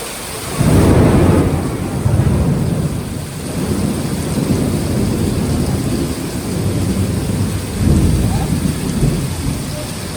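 Heavy rain falling with thunder rumbling. The rumble swells about half a second in and swells again near the end.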